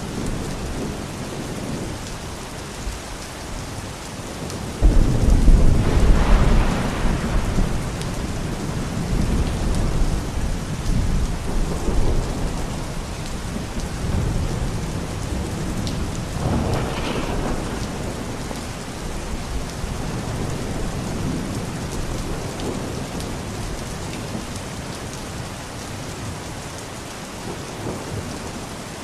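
Steady rain falling, with a roll of thunder that breaks in suddenly about five seconds in and rumbles away over several seconds, and a second, weaker rumble just past halfway.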